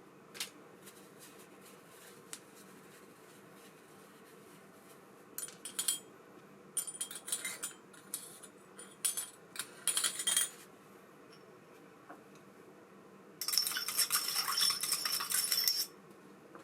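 Small metal parts of an ABU Ambassadeur 5500C baitcasting reel clinking and rattling as it is handled and worked on: a couple of lone clicks, then several short bursts of clinking, and a denser rattle of about two and a half seconds near the end.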